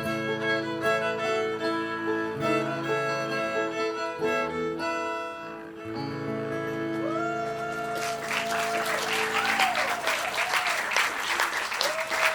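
Bluegrass band playing the closing bars of a song, fiddle and guitar together, the final chord ending about six seconds in. Audience applause starts about two seconds later and carries on.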